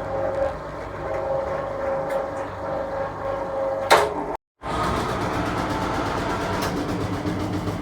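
1966 Bendix LA automatic washing machine running with a steady motor hum. A sharp click comes about four seconds in. After a brief drop-out the running turns rougher and deeper.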